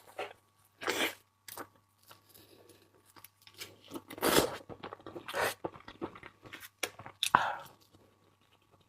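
Close-miked chewing and crunching of seafood: several separate wet crunches and bites with short pauses between them, the loudest about four seconds in.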